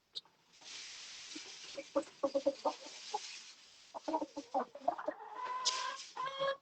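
Hens clucking in short repeated calls that grow busier in the second half, over a soft rustling hiss in the first few seconds as loose cracked corn is poured out for them.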